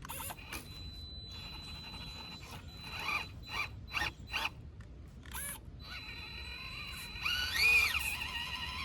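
Small electric motor and gear drivetrain of a 1/18-scale RC rock crawler whining in short bursts, with clicks and scrapes as the truck climbs over rock. Near the end there is a longer, louder whine that rises and falls.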